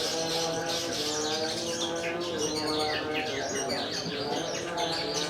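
Long-tailed shrikes (cendet) singing in quick, overlapping chirps and short gliding notes, many birds at once. A steady, lower-pitched background of held tones runs beneath them.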